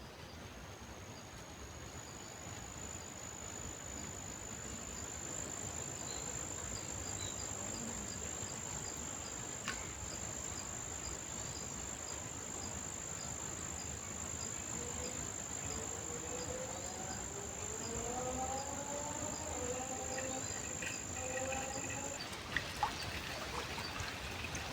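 An insect's continuous high-pitched trill, steady for about twenty seconds and then cutting off suddenly near the end, over a soft outdoor hiss. In the second half, fainter sliding calls rise and fall lower down.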